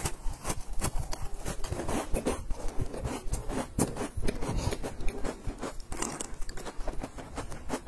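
Close-miked crunching and chewing of a crisp, crumbly cookie, a rapid run of sharp crunches. A short sip through a drinking straw comes near the end.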